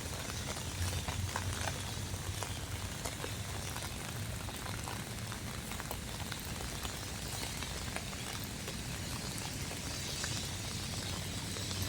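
Steady rain falling, with many scattered taps of individual drops.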